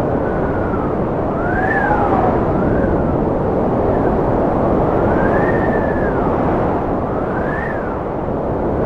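Cold wind blowing hard and steadily, with a whistling howl that rises and falls in pitch every second or two.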